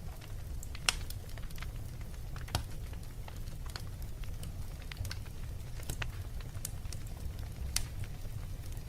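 Wood fire crackling in a fireplace: irregular sharp pops and snaps over a low steady rumble, the loudest pop about a second in.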